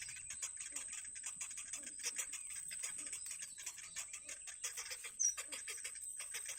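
Nestling birds begging for food: rapid, dense high chirping, with a short clear whistled note about five seconds in, over a steady high-pitched whine.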